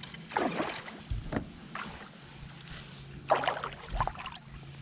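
Water splashing beside a kayak as a hooked bass is played to the net, in several short splashes over a faint steady low hum.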